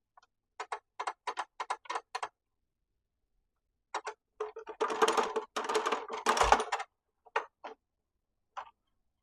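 Miter saw parts being handled: a quick run of about eight sharp clicks, then a couple of seconds of rattling and scraping with one dull thump, then a few more scattered clicks.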